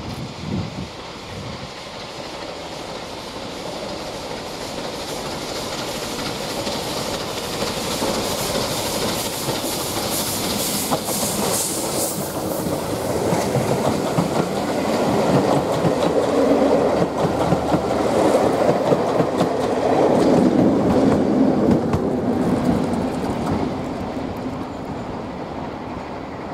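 Steam-hauled passenger train headed by a Southern Railway Bulleid 'Battle of Britain' class light Pacific, approaching and passing close by. Coach wheels give a clickety-clack over the rail joints. The sound grows steadily louder, peaks as the carriages go by, and falls away near the end.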